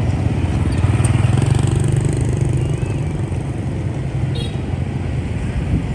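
Motorbike engines running in dense rush-hour street traffic, a steady low rumble of many small motorbikes. A short high squeak sounds about four seconds in.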